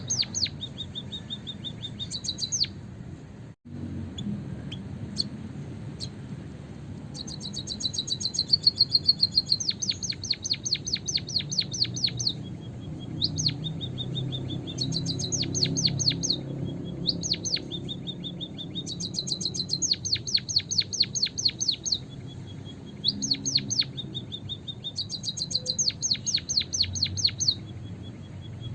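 Emprit kaji (white-headed munia) calling as a lure: repeated bouts of rapid, high chirps, roughly ten a second, each bout lasting one to three seconds with short pauses between. A faint low hum sits underneath.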